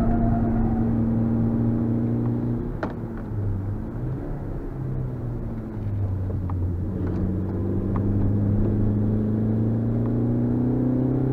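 Suzuki Swift Sport's 1.6-litre four-cylinder engine heard from inside the cabin while driving. A steady engine note falls away about three seconds in, then climbs slowly as the car pulls away again, with a few light clicks along the way.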